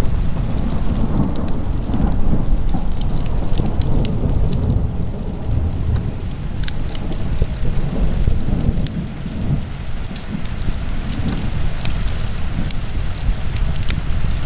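Wood fire burning in a fireplace: a steady low roar with many small, irregular crackles and pops.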